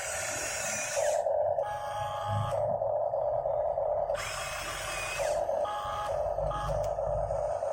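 Small electric gear motors of a remote-control toy excavator whining in short runs, the pitch and character changing every second or so as different motors start and stop.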